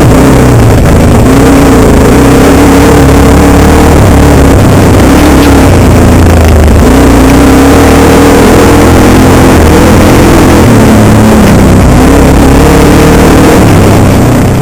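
Dirt bike engine running hard and very loud, its revs rising and falling as the throttle works, over a rush of wind and noise.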